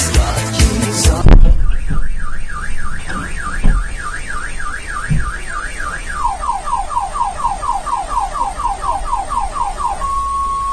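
Electronic music cuts off with a loud thump about a second in. A car alarm then cycles through its tones: a fast warbling siren, then a run of quick falling chirps, and near the end a steady beep.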